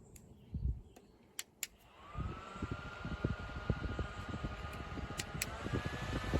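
Qidoe dual-head 5V USB car fan switched on with a click, its motor whine rising as it spins up and then running steady, with its airflow buffeting the microphone. Near the end two more clicks, and the whine steps up a little as the fan goes to its higher speed.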